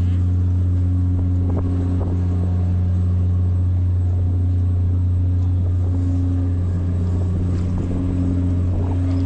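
Passenger ferry's engine running with a steady low drone.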